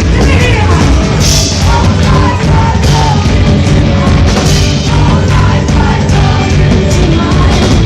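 Loud live rock band performance with drums and a singing voice over a dense, full mix.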